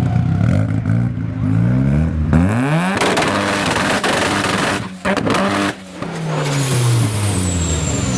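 A car engine revved hard as the car accelerates past. The pitch climbs steeply about two seconds in, stays loud and rough for a couple of seconds with two brief breaks in the sound, then falls away as the car goes by.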